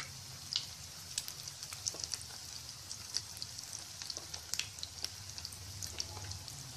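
Breadcrumb-coated egg kebabs deep-frying in hot oil: a steady sizzle with frequent small pops and crackles.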